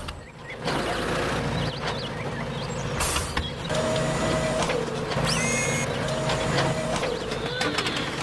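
Tractor engine running steadily at a low pitch, broken by several abrupt cuts, with a brief gliding whine partway through and some scattered clicks near the end.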